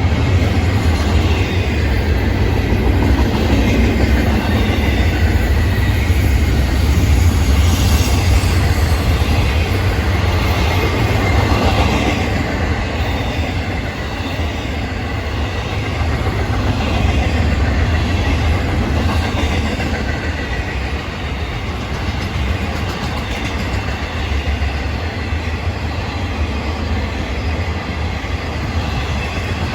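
Florida East Coast Railway freight train's cars rolling past, a steady loud rumble of steel wheels on the rails.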